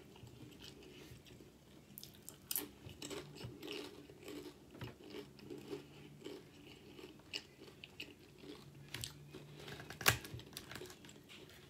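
A person chewing a mouthful of spicy Doritos tortilla chips. Sharp crunches come irregularly throughout, with the loudest about ten seconds in.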